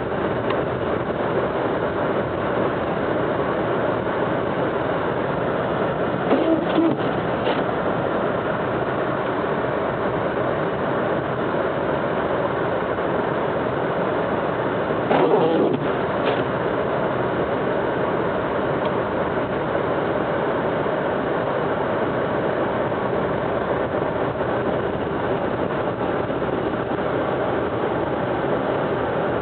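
Car driving on a snowy road: steady engine and road noise, with brief louder bumps about six seconds in and again about halfway through.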